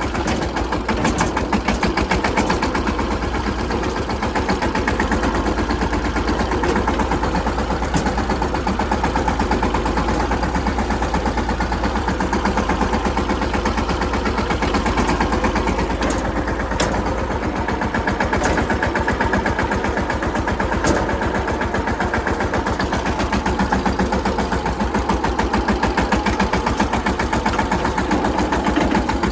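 Mahindra Yuvraj 215 tractor's single-cylinder diesel engine running steadily, with a fast, even chugging beat.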